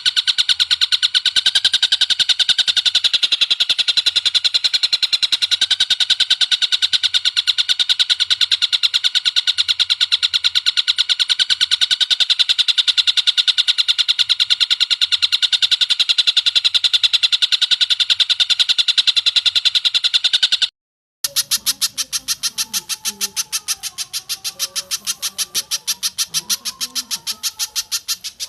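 Recorded bird call for bird training: a long, very fast run of evenly repeated high notes. About 21 seconds in it breaks off briefly and a similar rapid run starts again, quieter.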